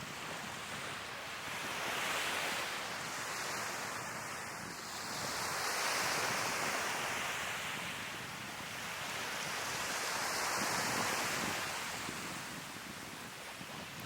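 Sea waves breaking and washing up the shore, the surf swelling and fading three times, loudest about two, six and eleven seconds in, with wind on the microphone.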